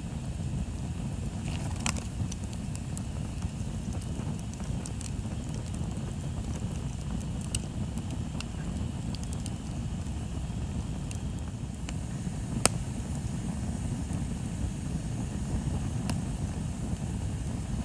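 Wood bonfire burning: scattered sharp crackles and pops over a steady low rumble, the loudest pop about two-thirds of the way through.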